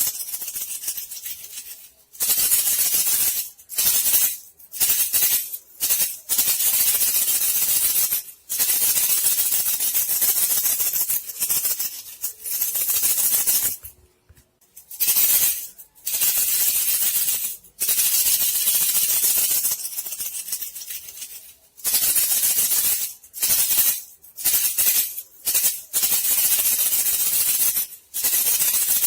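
Rat-hunting lure made by vibrating a thin bamboo strip, a dry high-pitched rattling hiss, used to call bandicoot rats. It comes in bursts from under a second to several seconds long, broken by short pauses.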